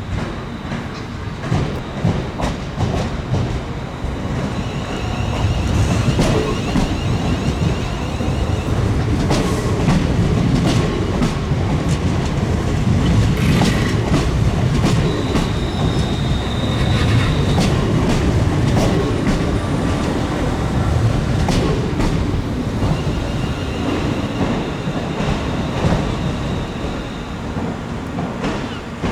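London Northwestern Railway Class 350 Desiro electric multiple unit moving through the station, its wheels clicking over rail joints and pointwork with a low rumble, growing louder after about four seconds. High thin squeals come and go a few times.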